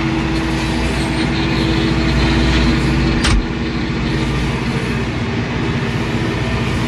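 Tractor engine running steadily as the tractor moves forward, with a single sharp clunk about three seconds in.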